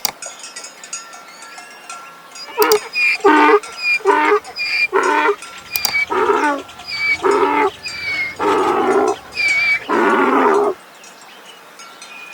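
Donkey braying: a long run of about ten alternating hee-haw calls that ends a little before the last second.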